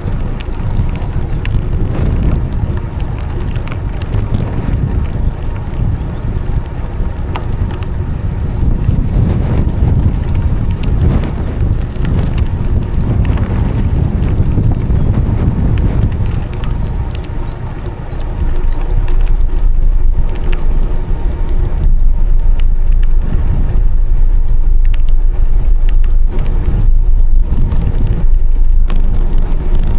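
Wind buffeting the microphone and bicycle tyres rumbling along a path while riding. The rumble gets louder and steadier about two-thirds of the way through.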